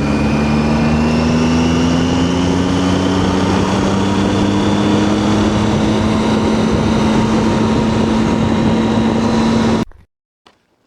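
Triumph Tiger 800's inline three-cylinder engine running under way, its pitch rising slowly as the bike gains speed, over a steady rush of wind and road noise. The sound cuts off abruptly near the end.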